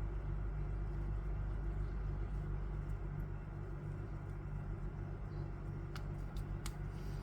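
Steady low background hum, with a few faint light clicks near the end as the string and ball are handled.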